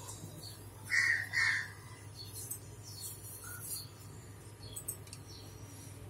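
Two short chirps about half a second apart, a bird calling in the background, over a faint steady low hum.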